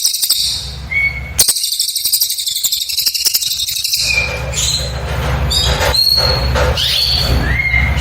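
Cililin bird singing. About four seconds of dense, rapid high-pitched trilling (the 'nembak' shooting song) break off into short separate whistled notes, several of them quick rising slurs, over a low steady hum.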